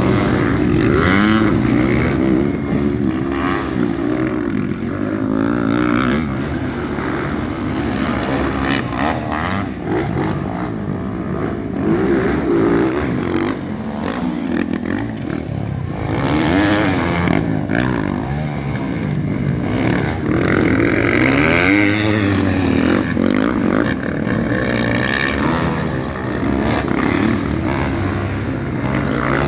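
Motorcycle engines at race pace, several overlapping, their pitch rising and falling again and again as they rev and shift.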